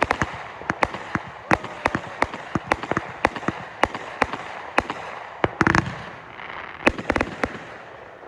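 Consumer fireworks going off: a rapid, irregular run of sharp bangs, several a second, stopping shortly before the end.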